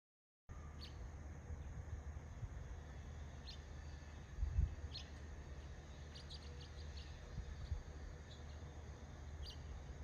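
Short, high bird chirps at scattered intervals, with a quick run of several about six seconds in, over a steady low outdoor rumble. A dull low thump about four and a half seconds in is the loudest moment. The sound cuts in after half a second of silence.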